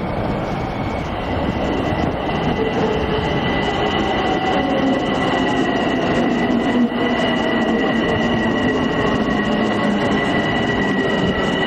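Long Island Rail Road electric commuter train pulling into the station, with a steady two-tone squeal from its wheels and brakes. Under the squeal, a lower whine slowly falls in pitch as the train slows.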